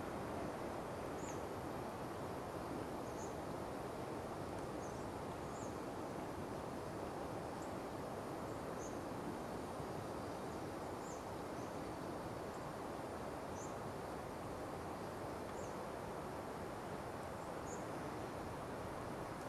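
Short, high bird chirps every second or two over a steady background hiss of woodland air.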